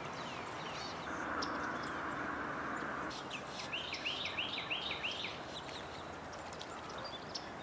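Wetland birdsong: one bird gives a quick run of about six repeated, arched whistled notes midway, over scattered short chirps from other birds. A buzzy hiss lasts about two seconds near the start.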